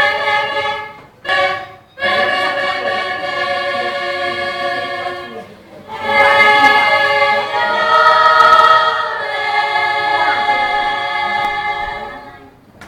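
Choir singing in held chords, a few phrases broken by short pauses, with a higher voice standing out in the middle of the last phrase before it fades near the end.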